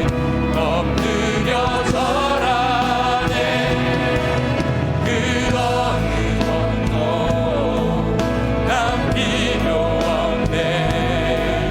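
Praise band of piano, synthesizer, bass guitar, electric guitar and drums playing a worship song, with several voices singing over it.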